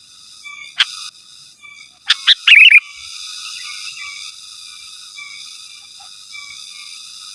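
Sooty-headed bulbul calling: a single sharp note about a second in, then a loud burst of quick chattering notes around two to three seconds in, over a steady high-pitched background drone.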